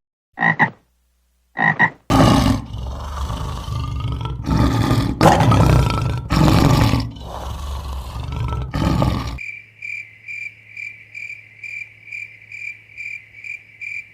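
Two short frog croaks, then a run of loud, rough roaring calls from a large animal for about seven seconds, then a cricket chirping steadily at about two to three chirps a second.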